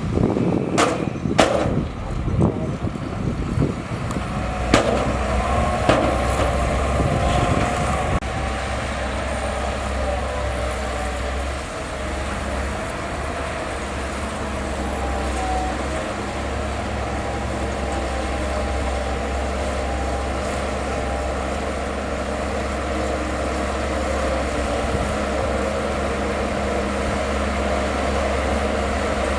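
Heavy diesel earthmoving machinery running steadily, with several sharp metallic clanks in the first five seconds.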